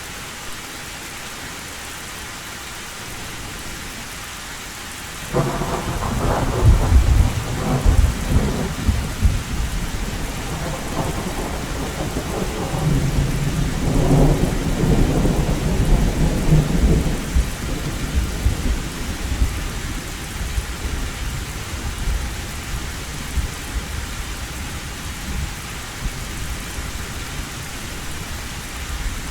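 Heavy rain falling steadily on a tin roof. About five seconds in, thunder breaks in suddenly and rolls on as a long low rumble that swells again near the middle before fading back under the rain.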